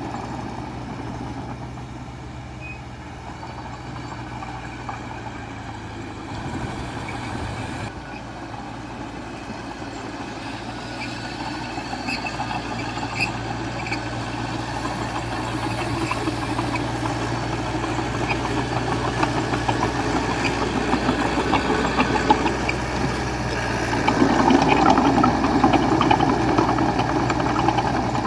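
Diesel engine of a small D20A crawler bulldozer running and working, growing louder from about ten seconds in and loudest near the end, with scattered light clanks over it.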